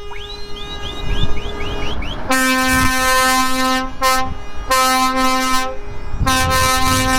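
Truck air horn blasting several times, long and short blasts of one steady pitch with strong overtones. Before the first blast, a quick run of high rising chirps, about four a second.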